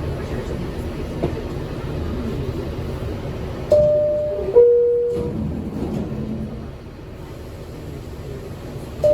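New York City subway car's two-tone descending door chime, sounding once over the steady rumble of the train: the signal that the doors are about to close.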